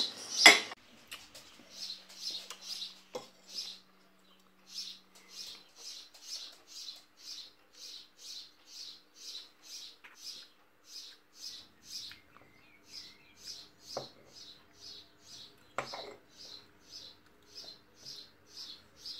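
Garden bird chirping over and over at an even pace, about two short high chirps a second. A sharp clink of cutlery on a plate near the start and a few lighter clinks later.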